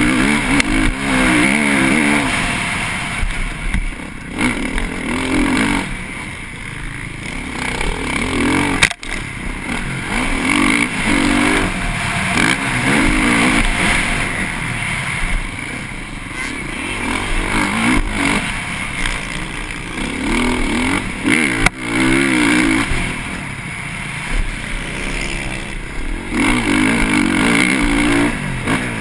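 Engine of a TM MX 450Fi motocross bike, a single-cylinder four-stroke, heard on board. It revs hard and eases off again and again as it is ridden round a dirt track, with two sharp knocks, about nine seconds in and near twenty-two seconds.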